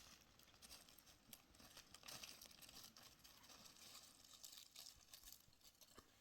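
Near silence, with faint scattered crackles and rustles.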